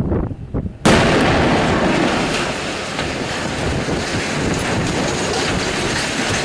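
A barrel bomb exploding about a second in: a sudden, very loud blast, followed by several seconds of loud, continuing noise from the blast.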